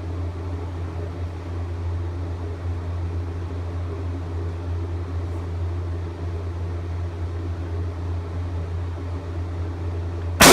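Steady low hum of an indoor range's ventilation, then right at the end a single .30-06 shot from a U.S. Model 1917 Enfield bolt-action rifle: a sharp blast with a short echoing tail.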